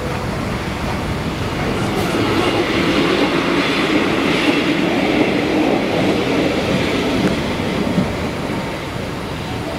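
Passenger train passing over a level crossing, wheels clacking over the rail joints; it grows loudest in the middle and eases off near the end.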